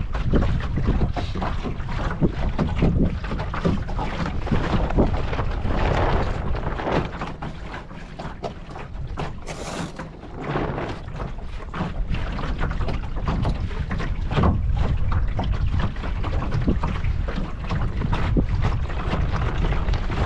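Wind buffeting the microphone while a small wooden Mirror dinghy sails along, with irregular splashing and slapping of water at the hull. The wind eases for a few seconds just before the middle, then picks up again.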